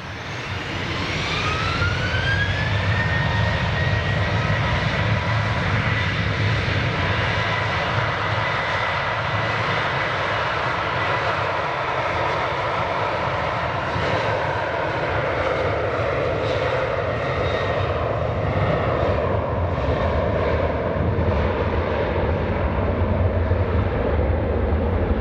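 Boeing 737-800's twin CFM56-7B turbofan engines spooling up to takeoff thrust, a whine rising over the first couple of seconds and then holding steady, followed by loud, steady jet engine noise on the departure, with a tone sliding slowly lower in the second half as the aircraft goes by.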